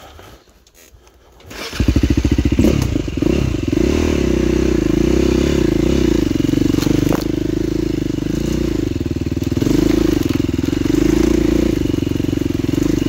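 Dirt bike engine running, coming in loudly a little under two seconds in. It holds a fairly steady speed, with small rises and falls in revs.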